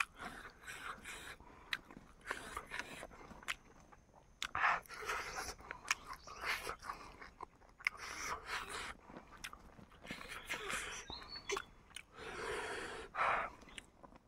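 Someone chewing and biting into cooked chicken: irregular wet mouth clicks and short noisy bursts of chewing, with occasional crunches.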